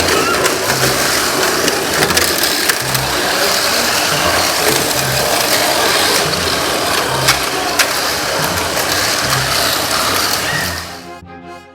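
Mini 4WD toy car's single-shaft electric motor and gears running at speed: a loud, steady buzzing rattle with scattered clicks. It cuts off sharply about a second before the end, and music starts.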